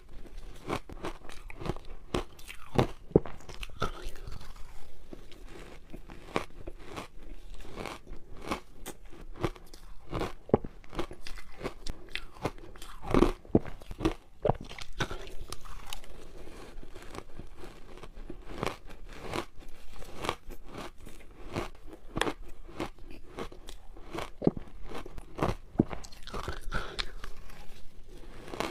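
Close-up crunching of hard ice as a frozen matcha ice ball is bitten and chewed, in a run of irregular sharp crunches several times a second.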